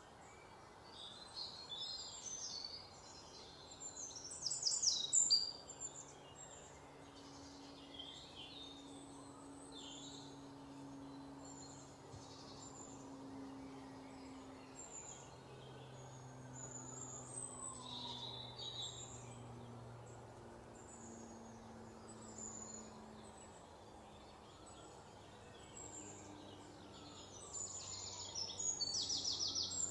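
Small birds chirping and trilling in short scattered bursts, louder about five seconds in and again near the end, over a faint steady low hum.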